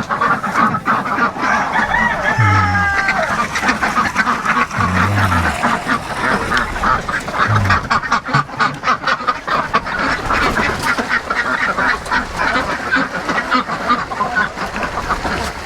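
A flock of domestic ducks quacking continuously, many calls overlapping in a dense chatter.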